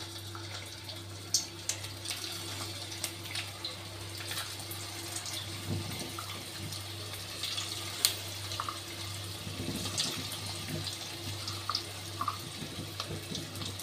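Aloo tikki (potato patties) frying in hot oil in a kadhai: a steady sizzle with scattered crackles and pops, over a faint steady low hum.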